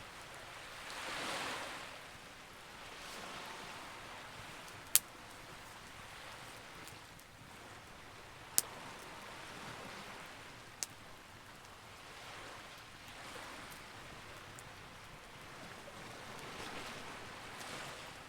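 Campfire burning, with three sharp pops from the wood, the loudest about five seconds in. Underneath, a soft rushing hiss swells and fades every few seconds.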